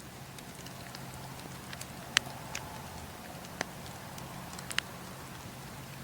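Wood fire crackling: sharp, irregular pops over a steady low hiss and hum, the loudest pop about two seconds in and a quick pair near the end.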